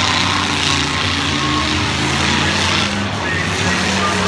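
Engines of several demolition derby cars running and revving together, their pitches rising and falling over one another.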